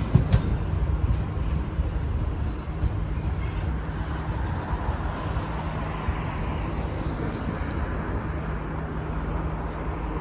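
Long freight train rolling past, a steady low rumble with an even hum, and wind buffeting the microphone.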